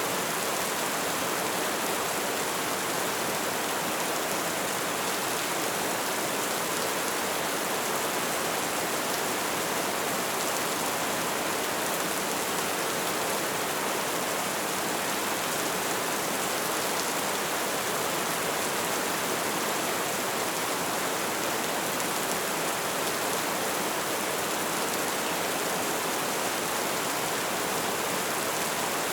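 Light rain falling, a steady, even hiss with no distinct drops or gusts standing out.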